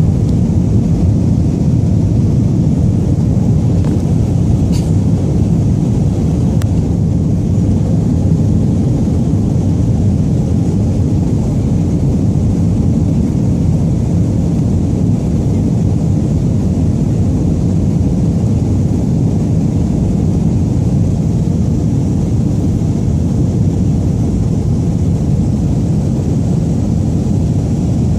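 Jet airliner cabin noise during takeoff: a loud, steady rumble of the engines and rushing air heard from inside the passenger cabin.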